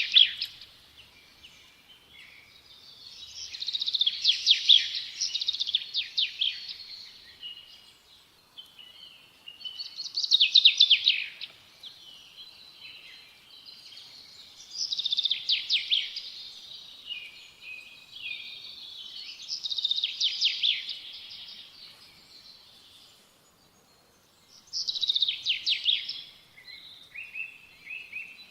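A songbird singing: five phrases of rapid, trilled notes high in pitch, each two to three seconds long, with pauses of a few seconds between them.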